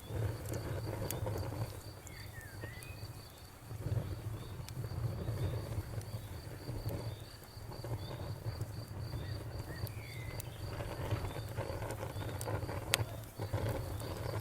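Bonfire crackling: a low rumble of burning wood with scattered sharp pops, one louder near the end. Over it a cricket chirps steadily at about four pulses a second.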